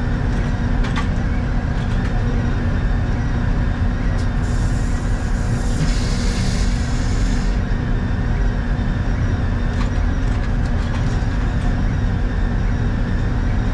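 Sawmill machinery running with a steady, loud drone. About a third of the way in, a hiss starts, lasts about three seconds, and stops.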